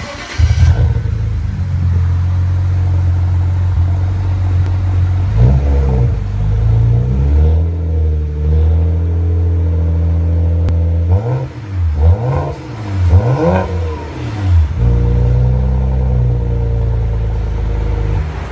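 BMW 335i's twin-turbo 3.0-litre straight-six running through a pair of Flowmaster Super 10 series mufflers: it fires up about half a second in and idles. It is revved several times, three quick blips rising and falling near the middle, then settles back to a steady idle.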